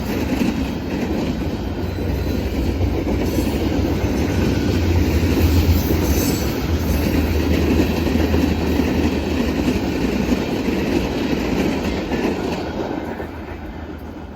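Norfolk Southern manifest freight train rolling past at speed: a steady rumble of freight cars with wheels clacking over the rails. It fades over the last couple of seconds.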